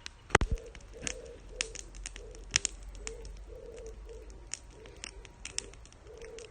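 A pigeon cooing over and over in a soft, even rhythm, about two coos a second, with sharp scattered clicks over it, the loudest just after the start.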